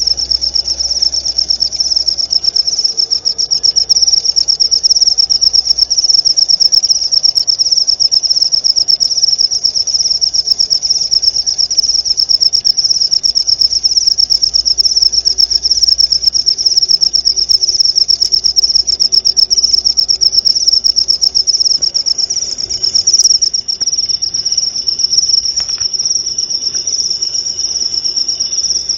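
Crickets chirping: a loud, continuous high-pitched trill made of rapid pulses, dipping briefly about three-quarters of the way through.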